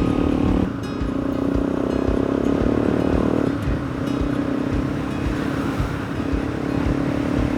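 Single-cylinder four-stroke dirt bike engine running under way, its revs stepping up about a second in and dropping again a few seconds later, with wind rumbling on the microphone.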